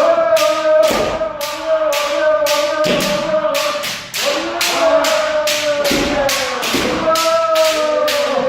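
Kendo practitioners shouting long, drawn-out kiai together. Over the shouts come sharp knocks about three a second: the strikes and stamping footwork of the drill.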